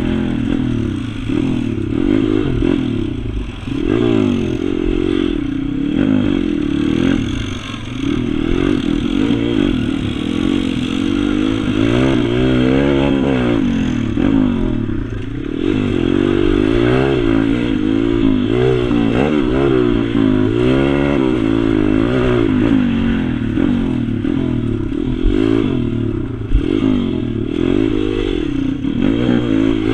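Pit bike engine running hard and revving up and down again and again as it is ridden around the track, the pitch rising and falling through the gears and corners.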